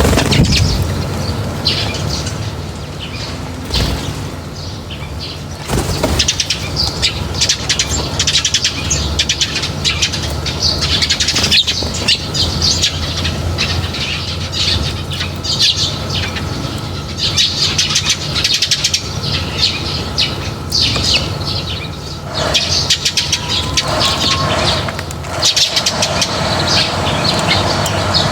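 A flock of birds chirping and twittering almost without pause, with wing flaps and short clicks among them, over a steady low rumble of traffic.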